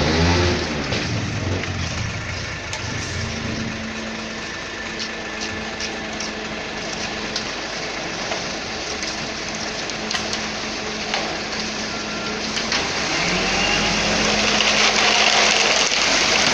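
Concrete mixer truck's diesel engine settling from a rev into a steady idle, with a rushing noise building over the last few seconds.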